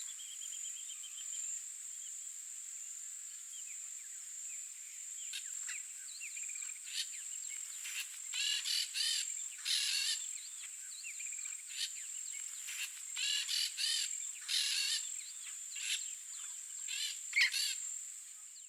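Peach-fronted parakeets calling: short calls in quick clusters, coming thicker in the second half, over a steady high-pitched insect buzz.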